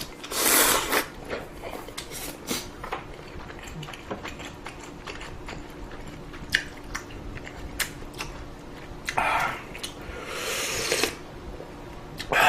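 A person eating ramen: a noisy slurp about half a second in and a longer one near the end, with soft chewing and a scatter of small utensil clicks in between.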